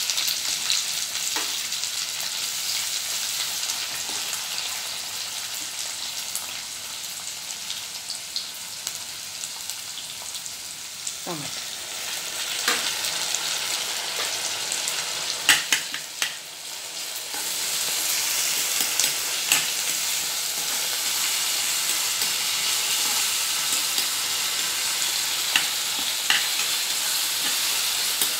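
Chopped onion, green chilli, garlic and tomato sizzling in hot oil in a pan, stirred with a metal spoon that clicks against the pan now and then. The sizzle grows louder about two-thirds of the way through.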